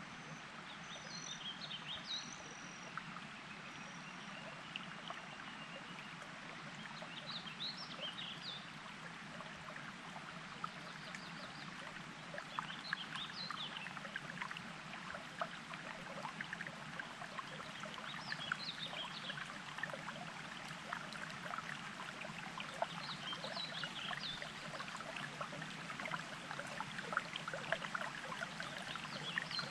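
Water burbling and trickling steadily, with a songbird singing short phrases about every five seconds.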